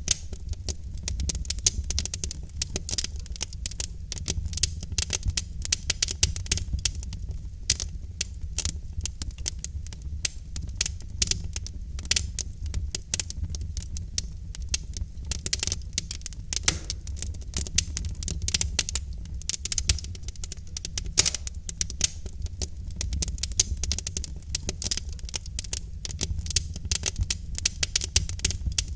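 Wood fire in a fireplace crackling, with many small irregular pops and snaps over a steady low rumble of burning logs.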